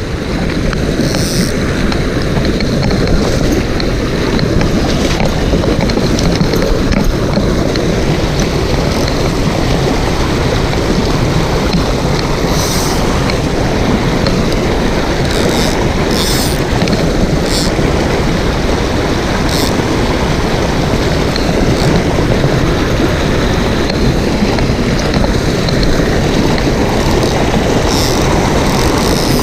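Mountain stream rushing steadily over rocks, with a few brief high-pitched sounds scattered through it.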